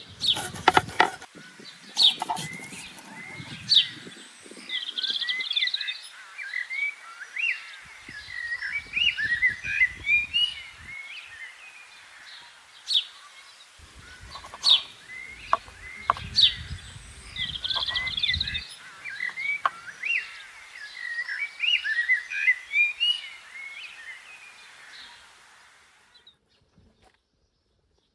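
Small songbirds chirping and singing, with scattered sharp clicks and knocks and two stretches of low rumble. The sound cuts out nearly to silence near the end.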